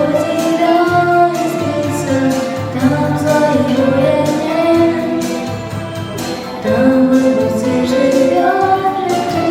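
Singing over an instrumental backing track: a melody of long held notes.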